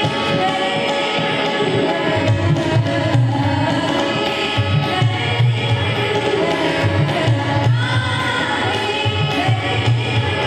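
A woman singing a song with tabla drum accompaniment and sustained melodic instruments.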